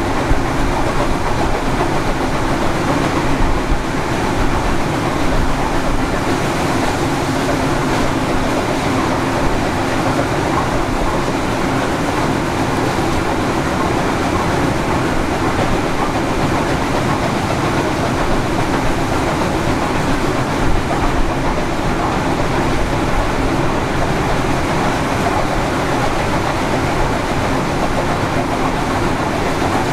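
Train carriage running along the track, heard from on board: a steady rumble of wheels on rails with a few faint knocks.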